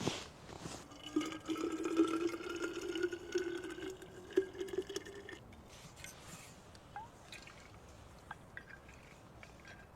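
Liquid poured into a container for about four seconds, its pitch rising slowly as the vessel fills, followed by a few small taps.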